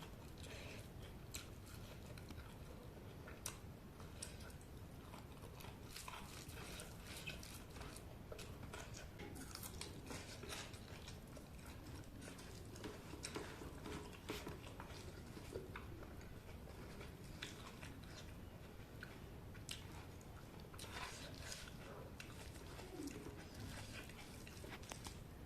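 A person eating chicken close to the microphone: steady chewing and biting, with many irregular small clicks from the mouth.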